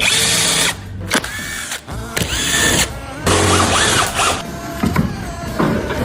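Power drill running in several short bursts, each a steady whine that winds down as the trigger is released.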